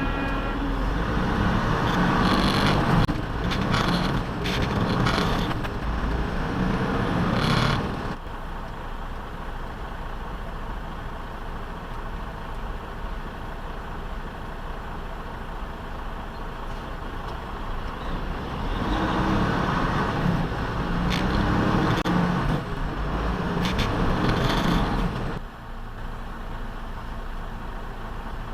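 Road traffic and vehicle engine noise picked up by a dash camera, louder for the first several seconds and again for a stretch near the end, with steadier, quieter road noise in between.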